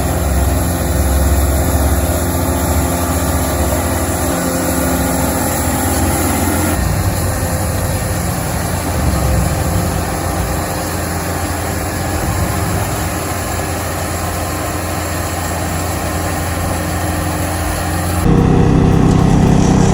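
Baker Blue Streak portable sawmill with its 75 horsepower engine running steadily under load as it saws a log. The sound changes abruptly about seven seconds in, and near the end it turns louder and deeper.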